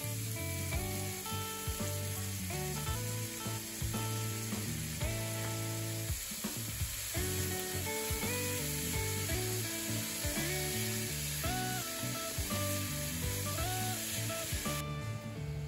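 Minced meat, onion and carrot sizzling in a hot frying pan while being stirred with a wooden spatula. The sizzle cuts off suddenly near the end.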